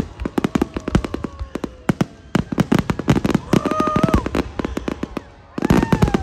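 Aerial fireworks display: a dense, nearly continuous barrage of loud bangs and crackling shell bursts. It eases briefly about five seconds in, then a fresh cluster of loud bangs follows.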